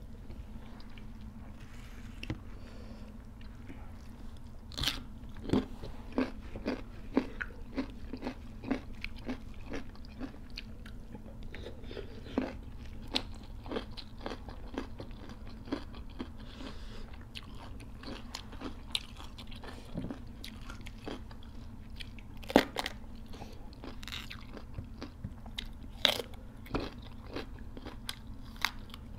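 Close-up eating sounds: irregular crisp crunches and chewing as raw vegetables and leaves are bitten, with a few louder bites about five seconds in and again past the twenty-second mark, over a steady low hum.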